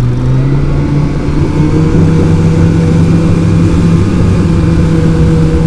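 Boat motor running under way, its pitch rising over the first couple of seconds as it picks up speed, then holding steady.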